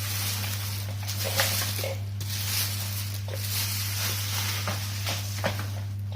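Rustling plastic and cardboard packaging being handled and opened, with scattered light clicks and knocks, over a steady low hum.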